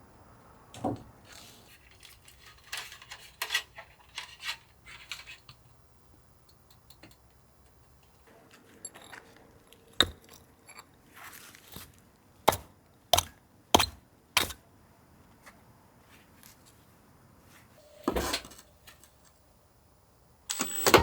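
Small hard objects being handled: a string of sharp clicks and light clinks, several in quick succession midway, with a few short rustles between them.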